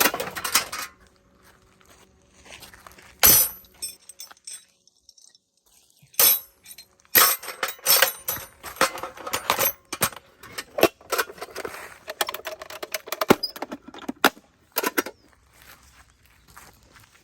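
Hard objects, some of them metal, clinking and clattering as they are handled, in irregular bursts of sharp knocks with a short ring.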